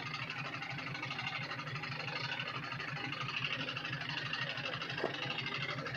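An engine running steadily at idle, with a fast even pulsing, and one brief knock about five seconds in.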